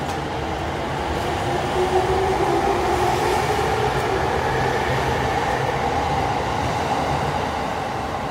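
Electric commuter train pulling out along the platform: its traction motors whine, rising in pitch as it picks up speed, over the steady rumble of wheels on the rails.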